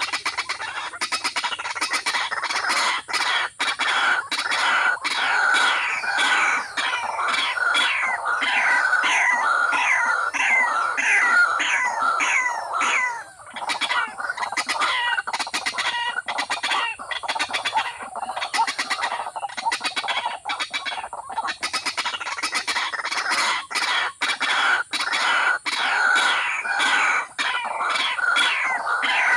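A flock of birds calling together, a dense steady run of short falling chirps with sharp clicks scattered among them.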